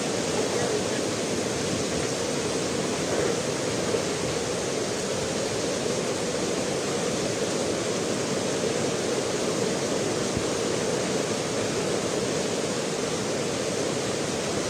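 Rushing floodwater of a swollen, overflowing river: a steady, unbroken roar of water.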